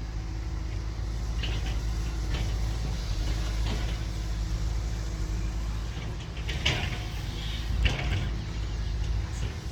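Heavy diesel engine of a six-wheel dump truck stuck in mud running steadily as it tries to climb out, with a few short metallic clanks.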